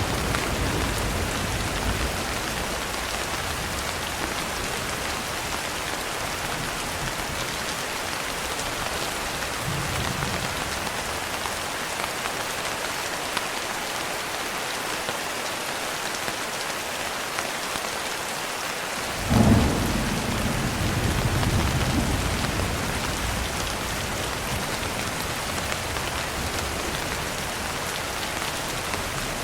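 Steady rain pattering on a window pane, with thunder. A low rumble fades out in the first couple of seconds and a faint one comes about a third of the way in. About two-thirds of the way through, a sudden loud clap rolls on into a rumble for a few seconds.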